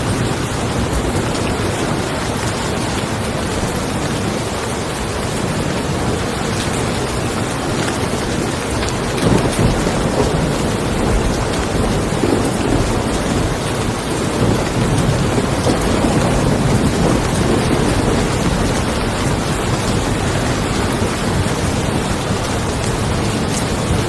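Steady rain falling on a car, with thunder rumbling low beneath it, swelling about nine seconds in and again in the second half.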